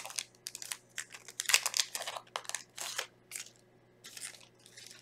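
Foil wrapper of a Yu-Gi-Oh booster pack crinkling as it is opened by hand, in short, irregular rustles.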